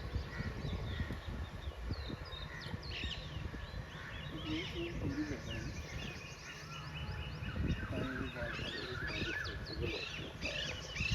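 A chorus of many small birds chirping and twittering, with short high calls overlapping throughout.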